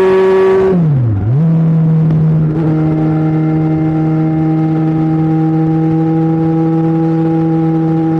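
Kawasaki Ninja 1000's inline-four engine and exhaust running loud. The note dips sharply about a second in, swings back up, then holds a steady, slightly lower pitch.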